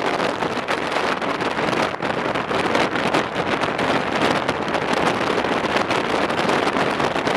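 Steady rush of wind buffeting the microphone on a moving passenger train, a dense crackling noise with little low rumble.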